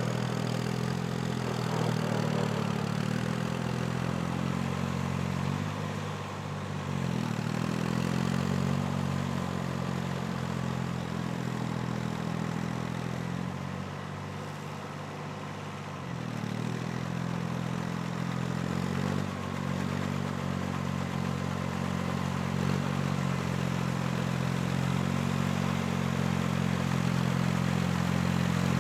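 Tractor engine sound running steadily, its pitch dipping briefly twice, as if under load, then recovering.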